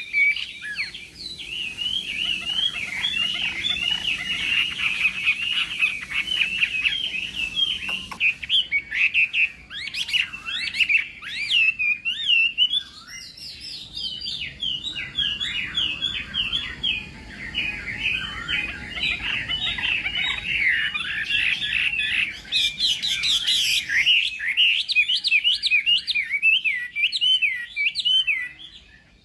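Chinese hwamei (họa mi) singing a long, rapid, varied song of quick whistled notes, with a short break about twelve seconds in.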